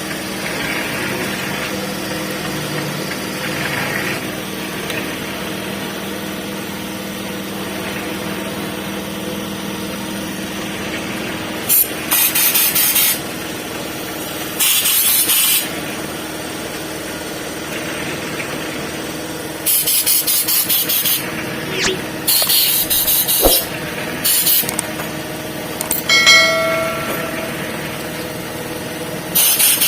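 A construction concrete mixer's engine running steadily, with an even hum throughout. Several short, loud bursts of hiss come over it in the second half, and there is one brief ringing metallic tone.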